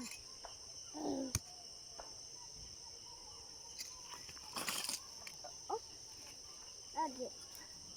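Steady high-pitched chorus of crickets or similar insects, with a few brief snatches of a voice and a short rasping burst about halfway through.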